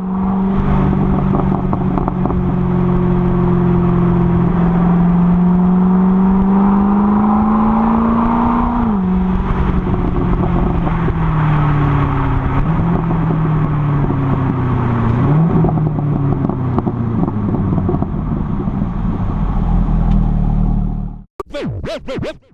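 Chevrolet C6 Corvette V8 engine and exhaust running at steady revs. The pitch climbs slowly, drops sharply about nine seconds in, rises and falls again a few seconds later, then holds steady before cutting off abruptly near the end.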